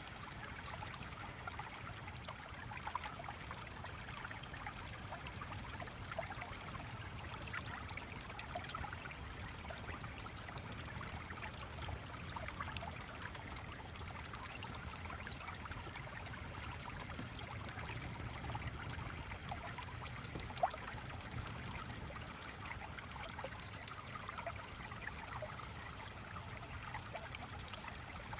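Gently flowing stream trickling and burbling steadily over a low rumble, with one sharp click about three-quarters of the way through.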